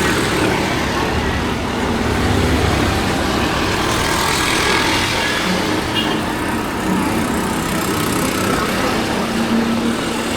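Steady road traffic: engines of passing vehicles running, with a constant hum and road noise.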